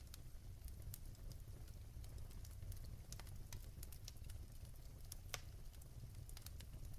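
Fireplace fire crackling: irregular sharp pops and snaps over a low steady rumble, with one louder pop a little past five seconds in.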